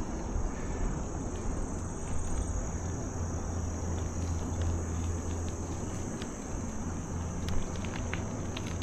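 Steady high-pitched chorus of insects, over a low rumble.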